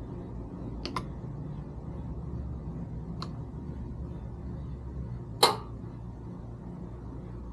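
Seal tools working seals out of a 6L80 TEHCM: a few light clicks, then one sharp snap with a short ring about five seconds in, over a steady low hum.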